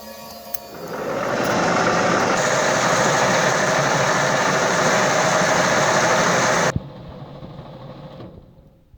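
Restored Hitachi electric drill switched on. Its motor spins up over about a second and runs steadily for about five seconds, then it is switched off and winds down.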